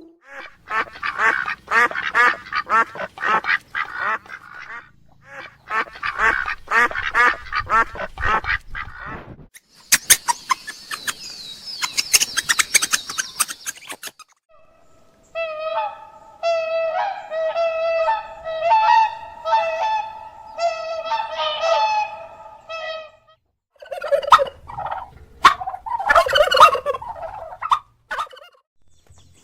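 Domestic ducks and geese calling in a series of separate clips: fast runs of quacking, a stretch of high, noisy chatter, then a long run of pitched honks.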